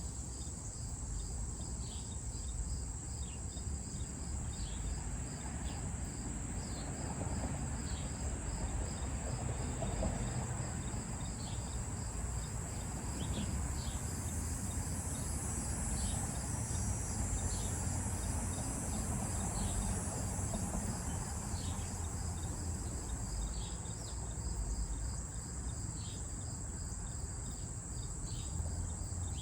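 Chorus of crickets: a steady high trill with an evenly pulsing chirp beneath it and scattered short chirps, over a low, even background rumble.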